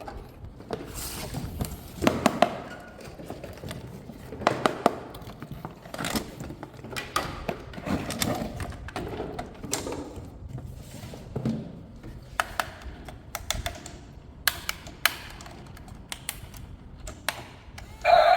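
Irregular clicks, taps and knocks of plastic toy parts and packaging being handled during an unboxing. Right at the end a loud electronic tone with overtones starts up.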